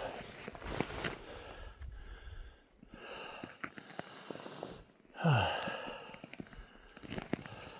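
A man breathing hard, with one loud, drawn-out sigh about five seconds in whose pitch falls steeply.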